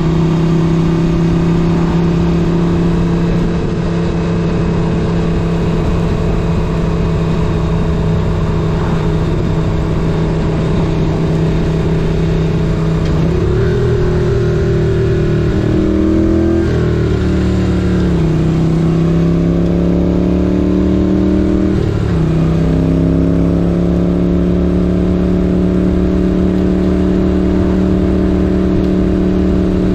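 1978 Moto Guzzi 850 Le Mans's air-cooled V-twin engine running at steady road speed. Its pitch drops and climbs a few times about halfway through, then settles steady again.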